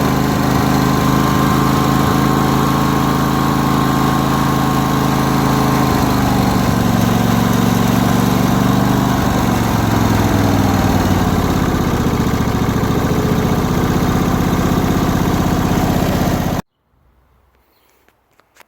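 Lawn tractor's 25 hp Briggs & Stratton Intek V-twin engine running steadily, its pitch falling as the engine slows from about a third of the way in, then cutting off suddenly near the end. The owner says the engine floods its carburetor while running.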